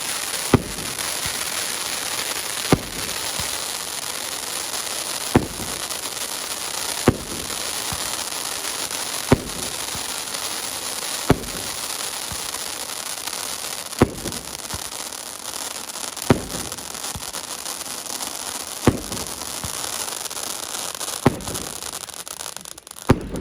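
Fireworks display: a steady, dense hiss of burning effects, with about eleven sharp single bangs spaced roughly every two seconds.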